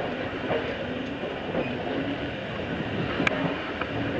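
Passenger car of a steam-hauled train rolling along the track: a steady rumble of wheels on rail, with one sharp click about three seconds in.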